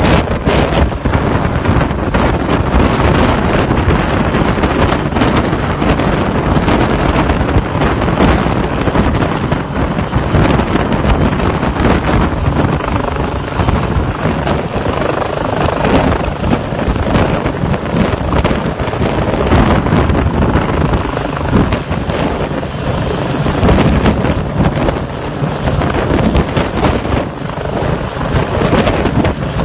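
Helicopter running loud and steady, with heavy wind buffeting the microphone.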